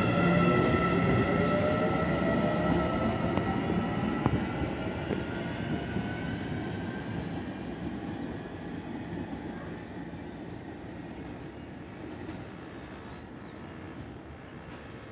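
Electric commuter train pulling out of the station: the traction motors whine and rise in pitch as it speeds up, over the rumble of wheels on the rails, fading steadily as it moves away.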